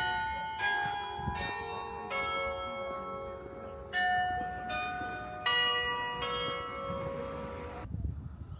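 Church bells ringing, about eight strokes on bells of different pitch, each note ringing on over the next. They stop abruptly a little before the end.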